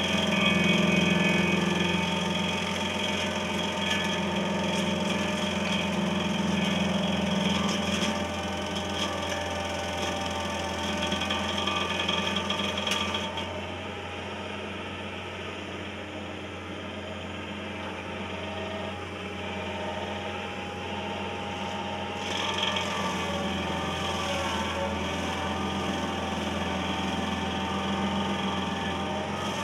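Shaver SC-30H stump grinder running, its cutter wheel rasping into a wooden stump over a steady machine hum. The grinding noise falls away for several seconds in the middle while the machine keeps running, then picks up again.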